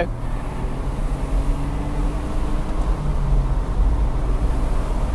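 Smart Roadster Brabus's turbocharged three-cylinder engine accelerating, heard from inside the cabin over steady road and wind noise.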